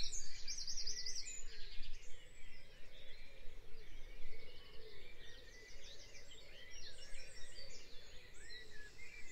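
Birds chirping, with quick repeated trills and short sliding calls overlapping throughout, over a faint steady background hiss.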